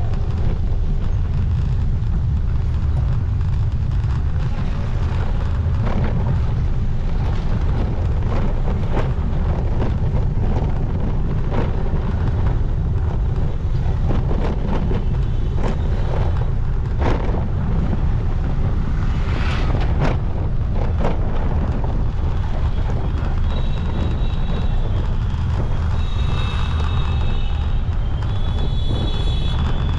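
Heavy wind buffeting on the microphone of a moving motorcycle, with engine and road noise underneath. In the last several seconds, vehicle horns honk a few times.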